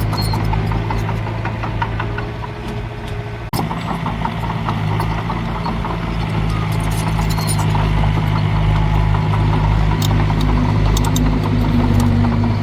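Heavy diesel engine of earthmoving machinery running steadily, with metallic rattling and clanking over it. The sound drops sharply for an instant about three and a half seconds in, then carries on.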